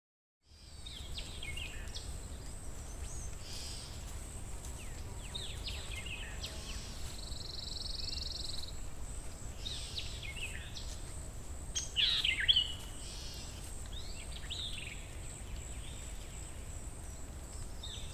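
Outdoor ambience: small birds chirping in short scattered calls, loudest about twelve seconds in, over a low steady rumble and a faint high steady tone. It begins after half a second of silence.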